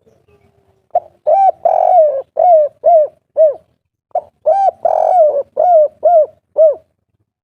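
Spotted dove cooing its 'kuk 3' song: two phrases of about seven short coos each, every coo rising and falling in pitch, the second phrase starting about four seconds in.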